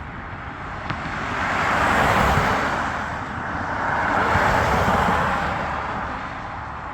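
Road traffic: two motor vehicles passing one after the other, their tyre and road noise swelling up and fading away, the first about two seconds in and the second about four and a half seconds in.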